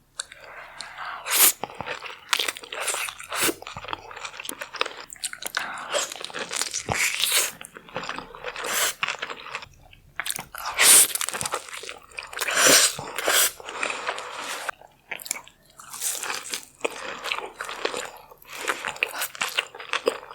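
A person biting and chewing food close to the microphone, in irregular crunchy, wet bites with no speech. The loudest bites come about eleven and thirteen seconds in.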